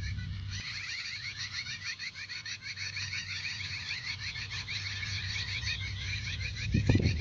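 A flock of small birds chirping rapidly and continuously, many calls overlapping. A low steady hum fades out about half a second in and comes back near the end, with a loud low thump about seven seconds in.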